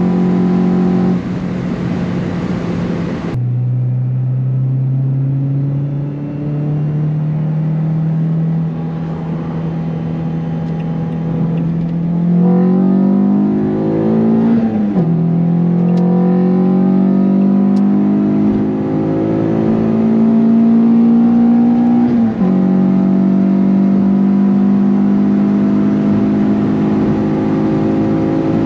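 Renault Clio RS 172's naturally aspirated 2.0-litre four-cylinder engine heard from inside the cabin at high Autobahn speed, its note climbing steadily under full throttle. The pitch drops abruptly three times, at about 3 s, 15 s and 22 s in.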